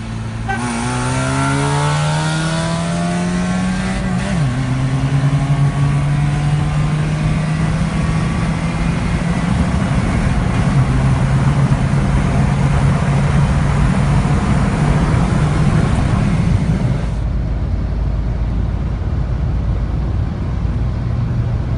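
Car engine accelerating hard: the revs climb from about half a second in, the pitch drops with a gear change about four seconds in, then the revs climb slowly again under load until the engine note falls away as the throttle is lifted about seventeen seconds in.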